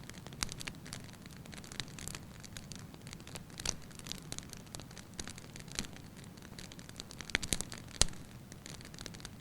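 Wood fire in a fireplace burning logs: a steady low hiss with irregular sharp crackles and pops, the loudest snaps coming about three quarters of the way through.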